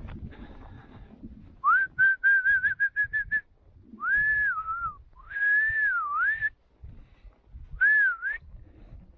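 A person whistling a tune in four short phrases: a quick run of repeated notes, then longer held notes that dip and rise in pitch.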